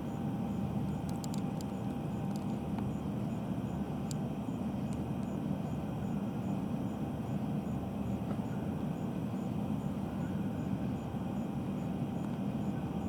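Steady low machinery rumble with a faint steady whine, unchanging throughout, with a few faint clicks in the first few seconds.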